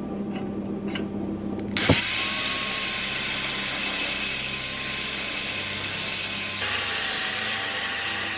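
An electric power tool switched on about two seconds in, its motor spinning up with a rising whine and then running at a steady high speed; near the end the whine dips a little in pitch, as when the tool is pressed into the work.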